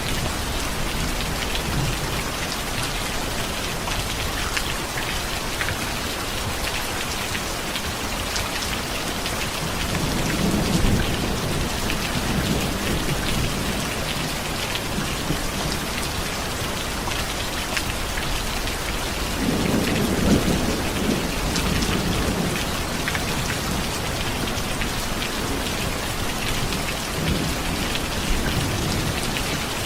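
Steady heavy rain falling on surfaces, a dense hiss full of small drop impacts. Low thunder rumbles swell up about ten seconds in and again about twenty seconds in, each lasting a few seconds.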